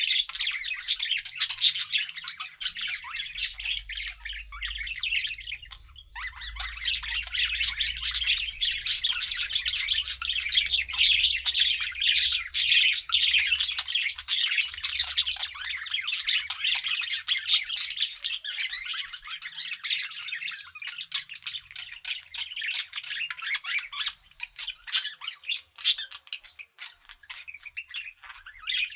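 Budgerigars chattering continuously with rapid chirps and squawks, thinning out and quieter in the last few seconds.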